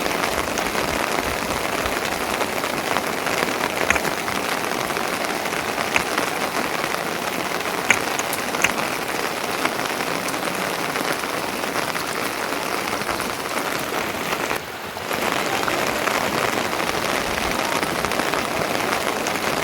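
Steady rain falling, with a few sharper ticks here and there and a brief dip in level about fifteen seconds in.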